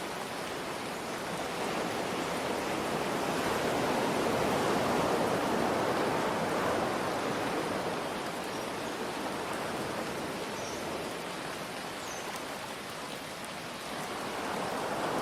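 Steady rain mixed with ocean waves, a continuous rushing hiss. One wave swells to a peak about five seconds in and slowly ebbs, and another begins to build near the end.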